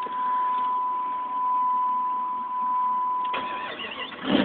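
A steady high-pitched electronic beep, like a vehicle warning tone, over a low hiss; it cuts out a little before the end. Near the end the Jeep's 5.2-litre V8, running with no muffler, comes in loud.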